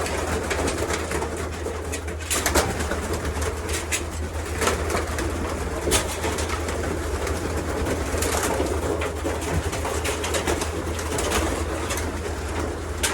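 A loft full of racing pigeons cooing together in a continuous murmur, with scattered sharp clicks and a steady low hum underneath.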